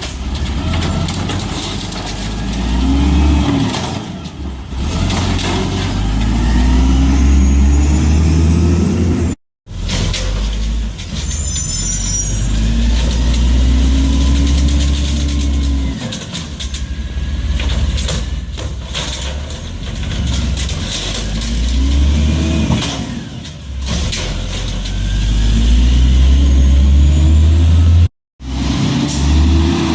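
Garbage truck's diesel engine revving up and falling back again and again, several rises and falls, as it drives the truck's hydraulics.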